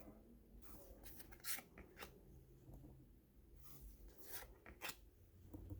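Faint handling of baseball card packs and cards: a handful of short, sharp crinkles of pack wrappers and cards being sorted, over low room hum.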